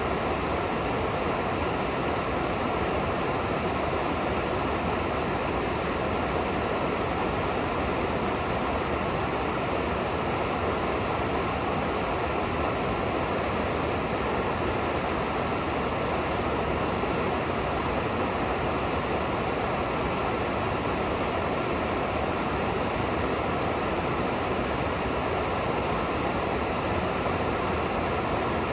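A river's water rushing steadily, an even, unbroken wash of flowing water.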